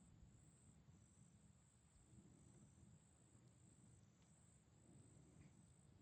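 Near silence with faint, high-pitched insect trilling that runs in long strokes with short breaks.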